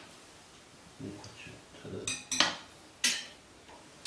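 A few sharp metallic clinks and knocks, one a quick double, over faint background murmur.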